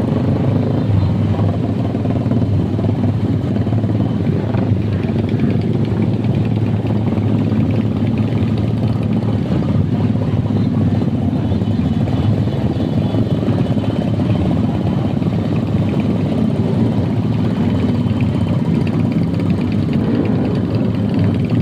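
Vehicle engine idling steadily through its exhaust, an even low hum with no loud pops.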